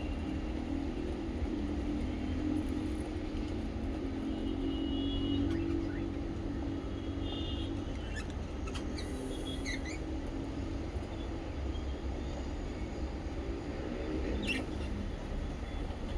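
Small pet parrots giving short, scattered high chirps and squeaks every second or two, over a steady low hum.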